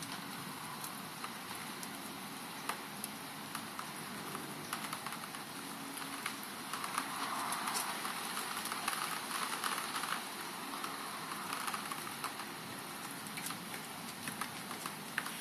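Steady rain during a thunderstorm, a constant hiss with many single drops ticking close by; the hiss swells for a few seconds around the middle. No thunder is heard.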